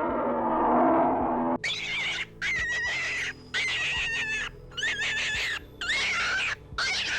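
Animal calls: a harsh, noisy call for about the first second and a half, then a run of shrill, wavering calls, each under a second, with short gaps between them.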